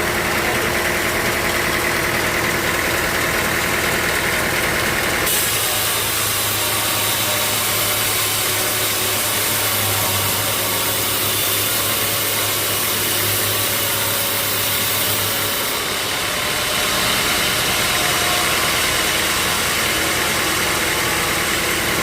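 Sawmill machinery running steadily with an engine-like drone. From about five seconds in until about sixteen seconds in it turns brighter and hissier, with a steady low hum underneath.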